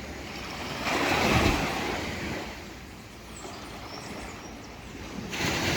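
Ocean waves rumbling onto the shore, with wind on the microphone: one wave swells about a second in and fades away, and another surges in near the end.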